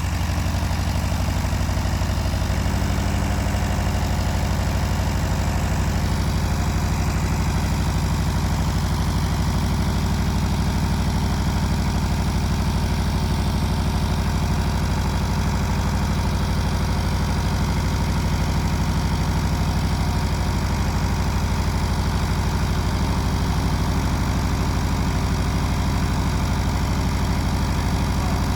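Old Allis-Chalmers farm tractor engine idling steadily right after a cold-morning start, settling into a slightly fuller run about two to three seconds in.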